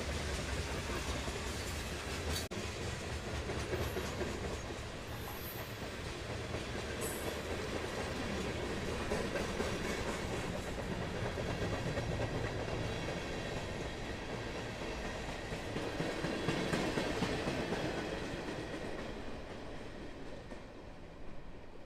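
Freight train cars rolling past, a steady rumble and clickety-clack of wheels on the rail joints, with a few brief high wheel squeals about five to seven seconds in; the noise fades toward the end as the train moves on.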